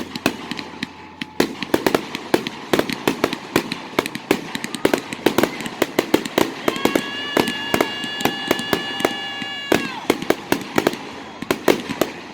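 Fireworks going off in a dense barrage of sharp bangs and crackles, several a second. A steady high whistling tone is held for about three seconds midway, then cuts off.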